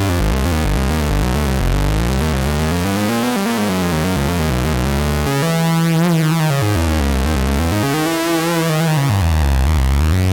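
2022 reissue Minimoog analog synthesizer playing a loud, deep, sustained improvised line, its pitch swooping up and down in several slow arcs.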